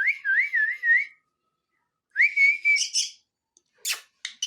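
Pet parakeet whistling: two wavering, warbling whistled phrases, the second rising into a held note, followed by a short sharp click near the end.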